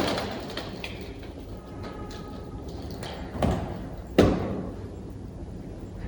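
Two sharp thumps, one at the start and one about four seconds in, each dying away quickly, with a duller swelling knock just before the second.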